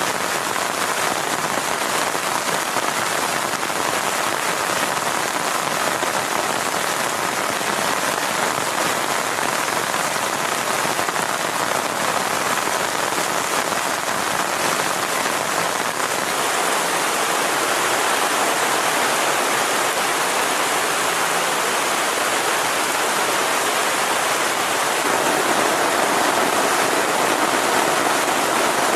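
Heavy rain falling steadily, a dense even patter that grows a little heavier about halfway through and again near the end.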